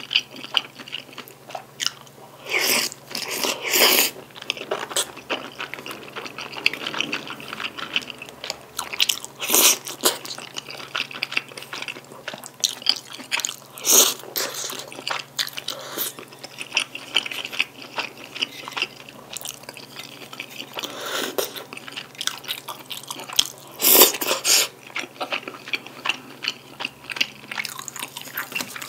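Close-miked chewing and mouth sounds of eating jjajang tteokbokki: chewy rice cakes and wide glass noodles in black bean sauce, with short clicks and several louder bursts of about a second spread through.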